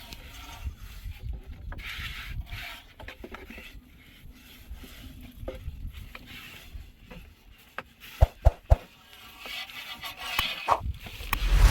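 Irregular rubbing and scraping sounds, with a quick run of three or four sharp knocks a little past eight seconds in and more knocking near the end.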